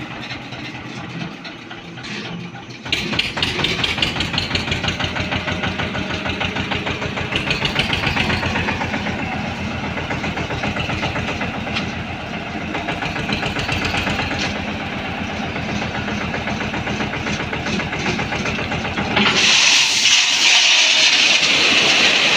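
Eicher 242 tractor engine running with an even pulsing beat, picking up and getting louder about three seconds in. Near the end it gives way suddenly to a steady rushing hiss.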